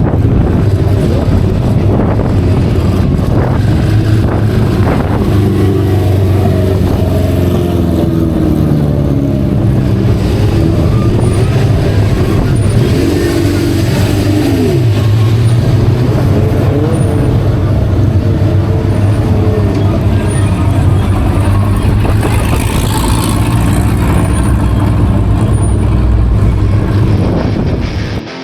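Classic racing car engine running loudly, with the revs rising and falling several times in the middle and dropping once about halfway through.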